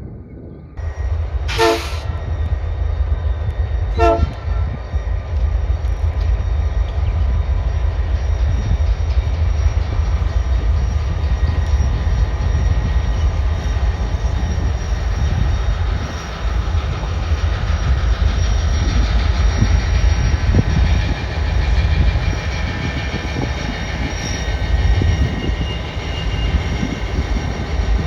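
Diesel locomotives (two EMD SD40-2s and a GP39-3 running light) going by with a loud, steady low rumble. Two short horn toots sound about two and four seconds in. Wind buffets the microphone.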